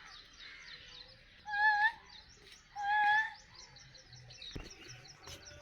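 Birds calling at a bird sanctuary: a constant chorus of small high chirps, with two loud, clear, pitched calls about a second and a half apart, each lasting about half a second.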